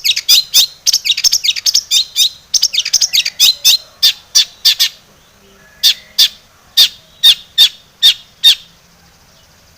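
Long-tailed shrike (cendet) calling: a fast, dense run of sharp, high chirps for about five seconds, then single chirps about half a second apart that stop a little after eight seconds.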